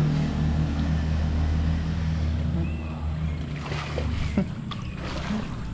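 Bus engine running with a steady low hum that eases off about three and a half seconds in.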